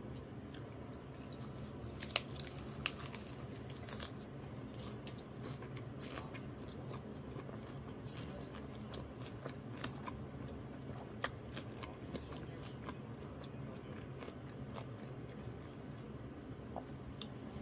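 Chewing a mouthful of lettuce wrap with sliced pigs' feet (jokbal): wet crunching and clicking bites, densest about two to four seconds in, then sparser chewing. A faint low hum runs underneath.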